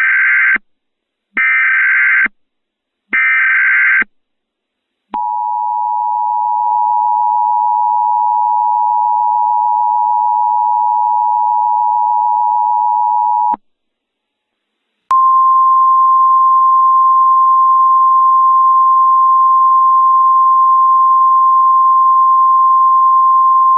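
Emergency Alert System tones: three short bursts of SAME header data, then the two-tone EAS attention signal (853 and 960 Hz sounding together) held steady for about eight seconds. After a short pause comes the single steady NOAA Weather Radio 1050 Hz warning alarm tone, announcing an emergency alert.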